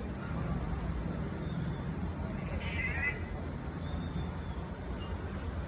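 An unidentified songbird calling: one short call about three seconds in and a few faint high chirps, over a steady low rumble.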